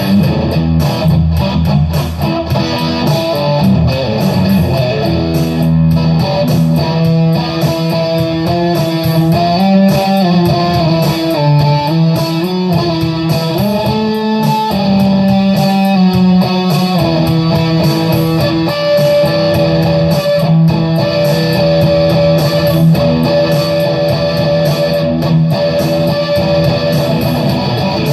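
Electric guitar playing improvised lead lines: held single notes changing every second or so, some bent up and down in pitch, over a steady low note.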